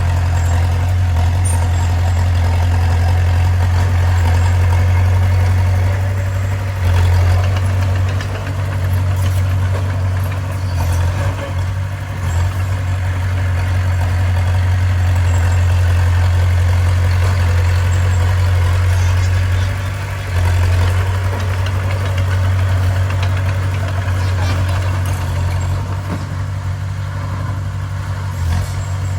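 Bulldozer's diesel engine running steadily with a deep hum, dipping briefly in level a few times.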